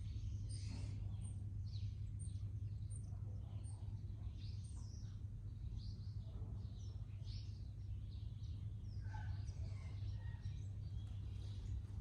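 Garden birds chirping and calling, several at once, with one bird repeating a high, thin note about every 0.7 s for the first five seconds. A steady low hum runs underneath.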